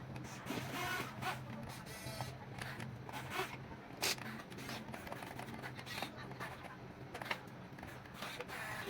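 Small electric motors and plastic gears of a Huina 1550 RC excavator whirring, with a steady hum that fades after about two seconds, amid scattered clicks and scrapes.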